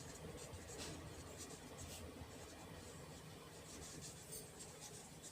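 Faint scratching of a pen writing, in short strokes.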